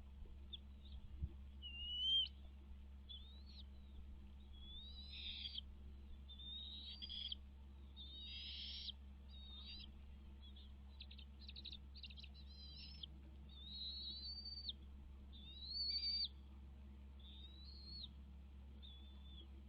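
A bird calling repeatedly: a series of short chirps and whistled notes, some rising or curving in pitch, over a faint steady low hum.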